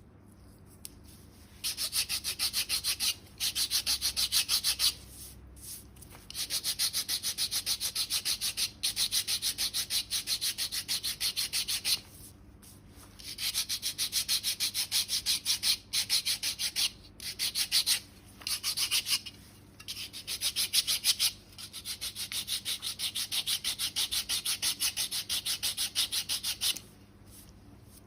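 Foot file rasping dry, callused skin on the sole in quick back-and-forth strokes. It comes in runs of a few seconds with short pauses between them.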